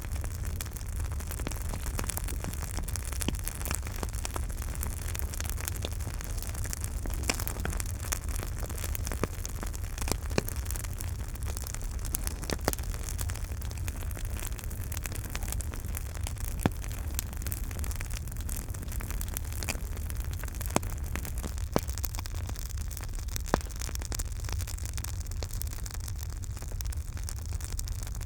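Campfire burning with a steady low rumble and hiss, and irregular sharp crackles and pops of the burning wood, a few of them louder.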